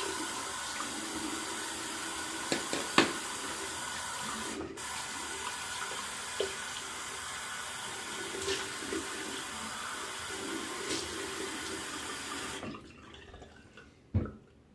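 Water tap running steadily into a sink, with a few small knocks and splashes on top. The flow stops briefly once and is shut off about thirteen seconds in, followed by a single short thump.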